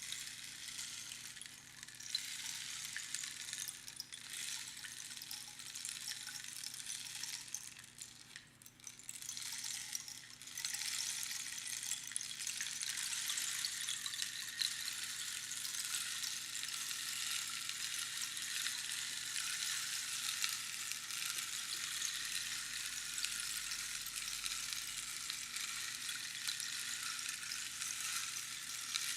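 Rainstick being tipped, its pebbles trickling down past the inner pins in a dense crackling patter that sounds like falling rain. The patter thins out about eight seconds in and builds up again after about ten and a half seconds, as the stick is turned over.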